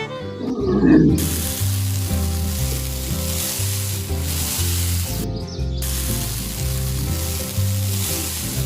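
Steady loud hiss like sizzling, starting about a second in and cutting out briefly about five seconds in, over background music with a bass line stepping between low notes.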